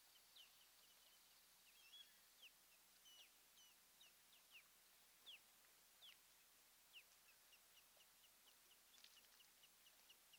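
Faint, high-pitched bird chirps: many short notes sliding downward in pitch, one or two a second, turning into a quick run of evenly spaced short notes near the end.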